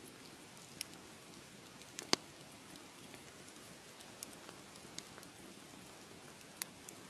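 Wood fire crackling: a soft steady hiss broken by scattered sharp pops, the loudest about two seconds in.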